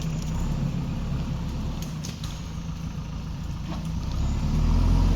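A heavy machine's diesel engine running steadily, its low hum swelling louder about four and a half seconds in, with a few faint clicks.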